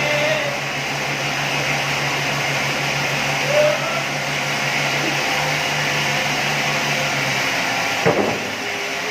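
Steady whir of motor-driven workshop machinery with a low hum; the hum drops out a little past seven seconds in, and a sharp knock follows about a second later.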